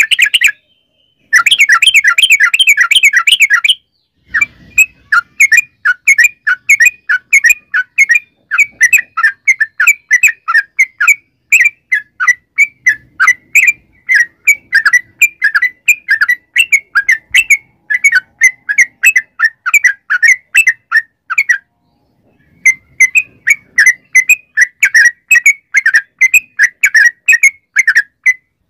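Yellow-vented bulbul (trucukan) singing a long, loud run of quick, repeated chattering notes. There is a short break about a second in and another about two-thirds of the way through.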